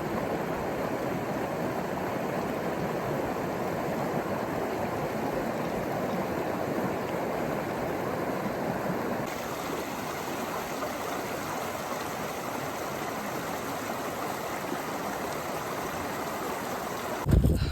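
River water rushing steadily over rocks, an even murmur that eases slightly about halfway through. A loud low rumble comes in just before the end.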